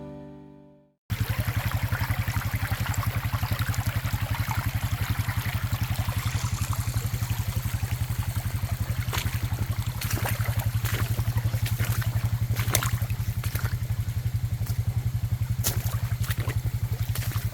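Rain-swollen creek water rushing and trickling, with scattered small splashes and clicks. Under it runs a steady, fast, low throb that is louder than the water.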